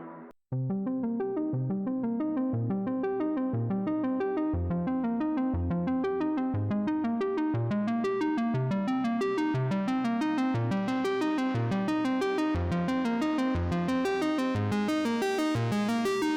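Instrumental background music: a steady run of repeating keyboard notes over a low bass note that changes about once a second, starting about half a second in after a brief gap.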